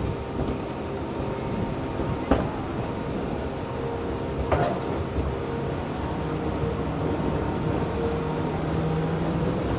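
Keihan electric train running, a steady rumble with a faint motor hum, and two sharp clicks about two and four and a half seconds in.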